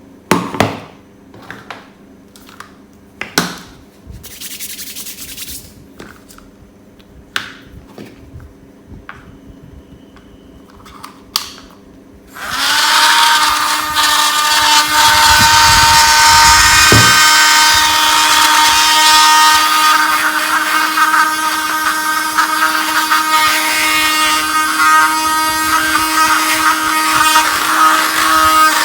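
A few handling clicks and knocks, then about twelve seconds in a small high-speed DC motor switches on and runs steadily in a homemade vacuum cleaner, giving a high whine over a rush of air.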